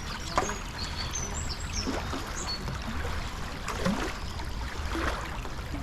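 Running water and splashing with scattered knocks, over a steady low rumble.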